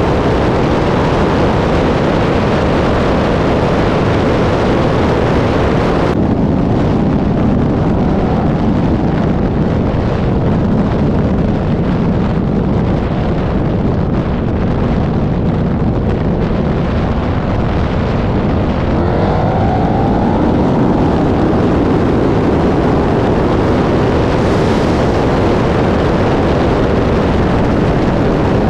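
Street-racing cars' engines running hard at full throttle, loud and continuous, with rising engine pitch around twenty seconds in. The sound changes abruptly about six seconds in, as from one run to another.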